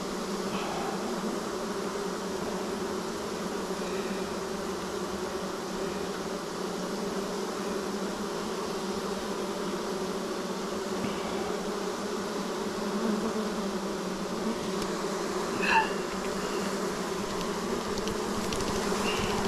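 Honeybees buzzing as a steady hum over an opened hive, the colony agitated and defensive. A brief sharp sound stands out about three-quarters of the way through.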